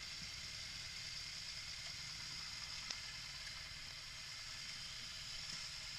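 Steady background hiss with a low rumble underneath and one faint click about three seconds in.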